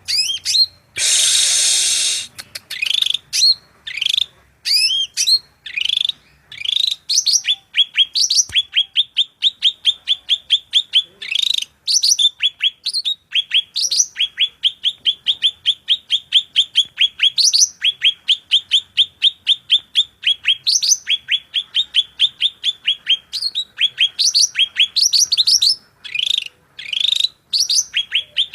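A caged songbird singing loudly: long runs of quick, repeated, upward-sweeping chirps at about five notes a second, broken by short varied phrases, with a brief harsh rasping burst about a second in.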